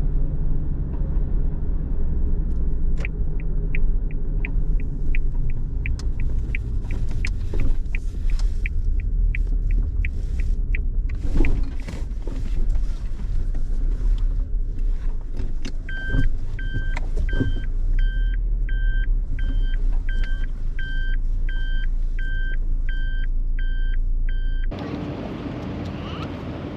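Car driving, heard from inside the cabin: a steady low road and engine rumble, with a rhythmic ticking of about two to three clicks a second for several seconds, like a turn-signal relay. Later a repeating electronic beep at a similar rate joins in, and near the end the sound cuts to a quieter, hissier one.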